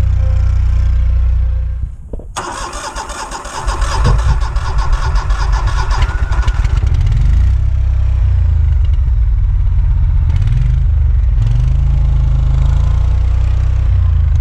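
A riding mower's engine running, cutting out about two seconds in, then starting again with a few seconds of rapid clatter and running on, its speed rising and falling.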